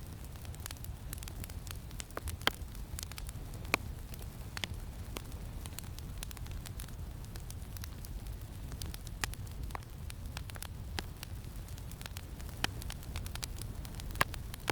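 Campfire crackling, with irregular sharp pops from the burning wood, a few of them loud, over a steady low rumble of wind.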